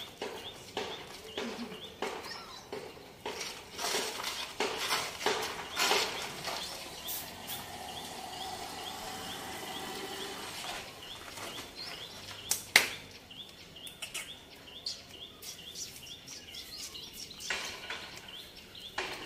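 Outdoor ambience: a bird repeating a short, high chirp about twice a second, over scattered scuffs and clicks, with one sharp click about two-thirds of the way through.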